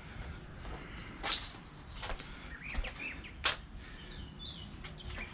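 A few sharp clicks and knocks of plastic oil bottles and a funnel being handled, the loudest about three and a half seconds in. Faint birds chirp a few times in the background.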